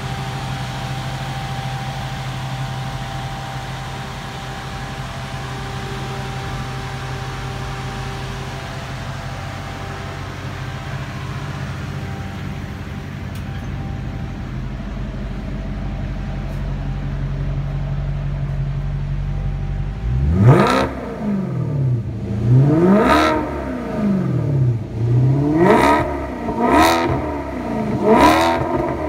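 Maserati GranTurismo's V8 idling steadily, then revved in about five quick blips, each rising and falling sharply in pitch, in quick succession over the last third.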